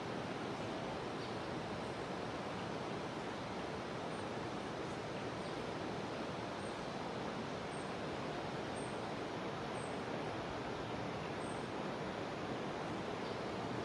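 Steady rush of a jungle river's flowing water. Faint short high chirps come in from about four seconds in, roughly one a second.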